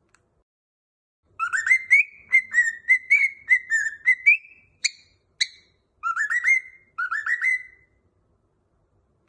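Cockatiel whistling a song: about a second in, a quick run of short whistled notes, then two sharp chirps, then two rising whistled phrases, with pauses in between.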